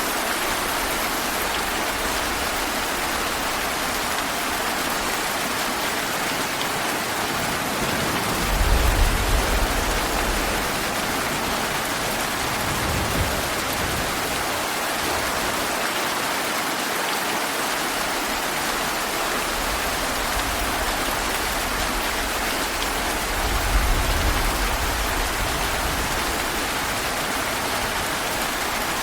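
Heavy rain falling steadily, a dense even hiss of rain on foliage and ground. Two low rumbles swell under it, one about a third of the way in and another about four-fifths through.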